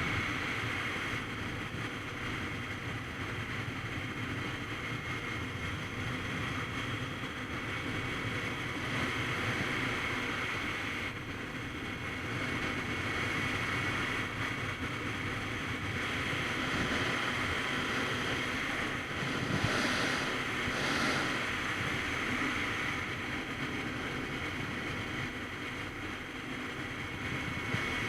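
Wind rushing over the microphone of a phone mounted on a Kawasaki Z900RS Cafe at riding speed, with the motorcycle's inline-four engine running steadily underneath. A couple of brief louder gusts come about two-thirds of the way through.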